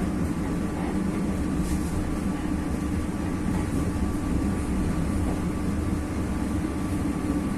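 KA Joglosemarkerto passenger train in motion: a steady rumble of the carriage running on the rails, with a faint constant high hum above it.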